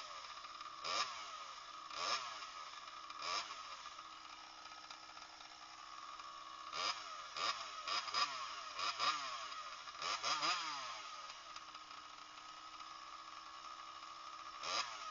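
Small two-stroke engine with a CPI Racing exhaust pipe idling and being blipped on the throttle. It revs up and drops back three times early on, then in a quick run of about six blips midway, then once more near the end, settling back to a steady idle between them.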